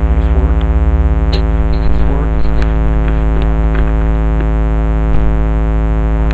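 Dirt bike engine idling steadily, with a few light clicks over it.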